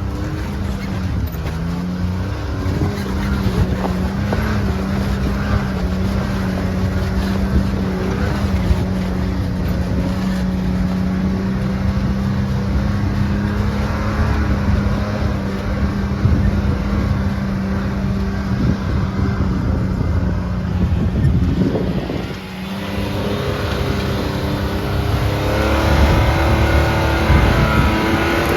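Can-Am Maverick X3 Max side-by-side's turbocharged three-cylinder engine running steadily under way, heard from the passenger seat. It eases off briefly a little after twenty seconds, then revs up again toward the end.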